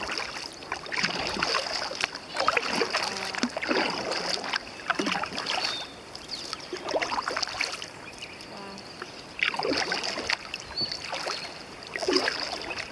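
Kayak paddle strokes: the blades dip and pull through calm river water in a series of splashy swishes roughly a second apart, with a lull of a few seconds past the middle. A faint steady high-pitched hiss runs underneath.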